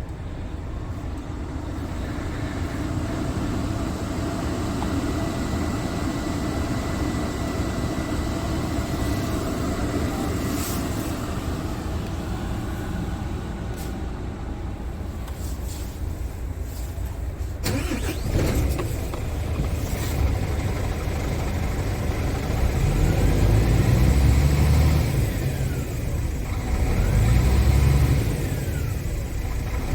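Scania R450 truck's 13-litre six-cylinder diesel engine running steadily. There is a sharp knock about eighteen seconds in, and near the end the engine note swells louder twice.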